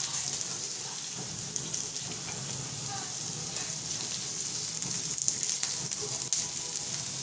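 Sliced tomatoes, peppers and mushrooms sizzling on a hot plancha griddle: a steady frying hiss with a few sharper crackles and ticks in the second half.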